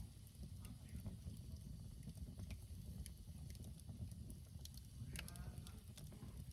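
Wood campfire crackling, with scattered sharp pops over a steady low rumble. About five seconds in, a short call with a wavering pitch sounds faintly.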